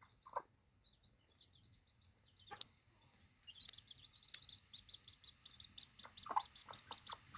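Baby chicks peeping, a rapid string of short high-pitched peeps that picks up about three and a half seconds in. Mother hens give a few low clucks alongside.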